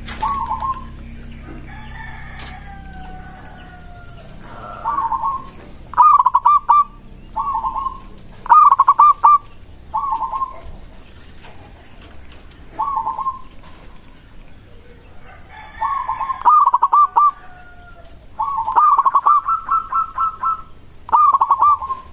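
Zebra dove (perkutut) cooing: a dozen or so short, rapid rolling coo phrases, one every second or two. Twice, a longer call falls slowly in pitch underneath them.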